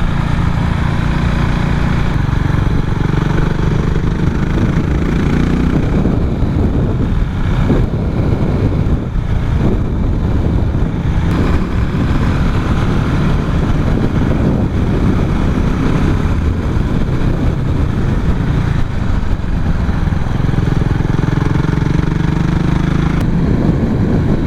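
Motorcycle engine running while riding, its pitch rising and falling with throttle, mixed with steady wind rush.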